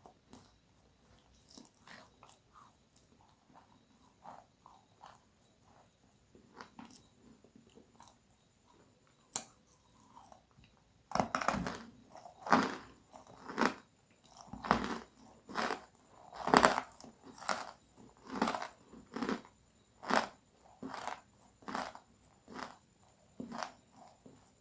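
Close-miked chewing of crispy food: soft scattered crunches at first, then from about eleven seconds in, loud crisp crunches about once a second.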